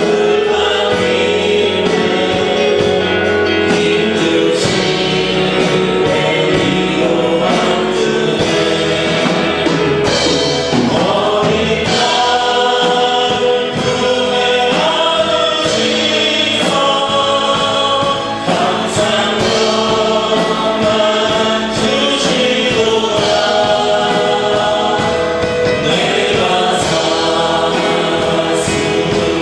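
Christian praise song sung by several voices over instrumental accompaniment, with a steady beat.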